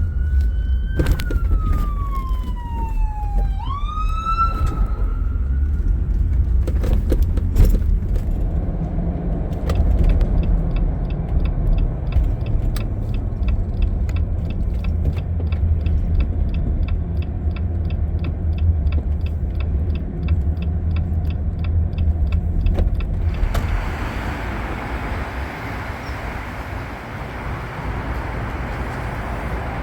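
A Jeep Gladiator driving, heard as a steady low rumble of engine and road noise. In the first few seconds a siren wails, its pitch falling and then rising again. Later a fast, regular ticking runs for several seconds, and about three-quarters of the way through a louder hiss of road and wind noise comes in.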